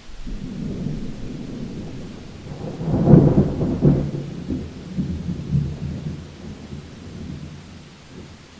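A thunder roll: a low rumble swells to a sharper, crackling peak about three seconds in, then rolls on and fades away over faint steady rain.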